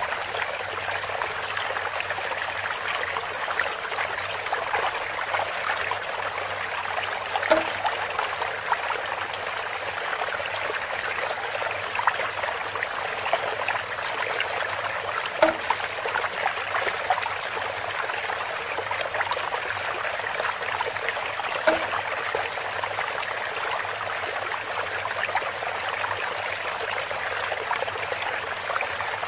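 Water trickling and splashing steadily through a bamboo spout. A short, low, hollow sound recurs three times, about every seven or eight seconds.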